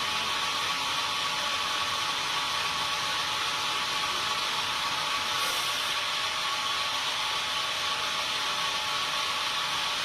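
Sawmill machinery running steadily: a constant high hiss with a steady whine.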